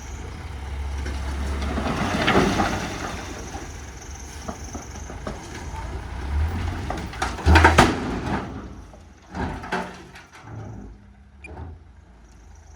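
Heavy earthmoving machinery at work: a diesel engine running with metallic clanks and rattles. The loudest moment is a sharp clatter a little past halfway, after which it goes quieter with a few scattered knocks.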